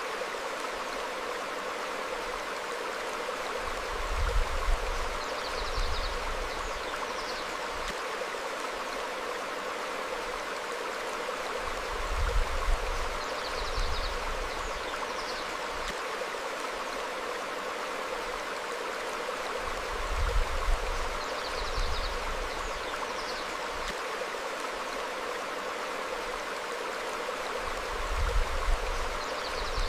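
A stream flowing over rocks, a steady rush of water. A low swell rises about every eight seconds, and faint short bird chirps come at the same spacing.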